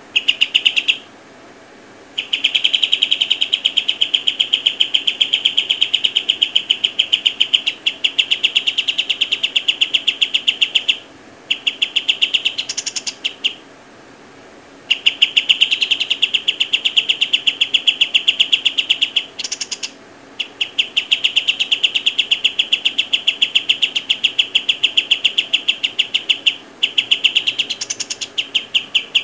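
A bird chirping in long, rapid runs of evenly repeated high notes, each run lasting several seconds, with short breaks between runs.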